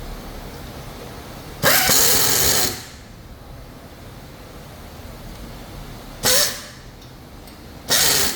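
Three short bursts from a power tool on an engine assembly line. The first, about a second in, lasts roughly a second; the other two, near the end, are briefer. They sound over a steady factory background.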